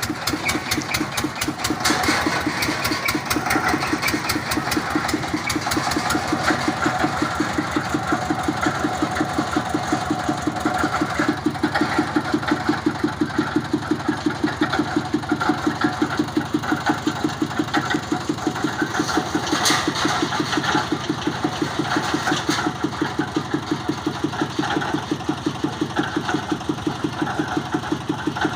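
Engine of a water-well boring rig running steadily with a rapid, regular beat, and a few sharp knocks in the second half.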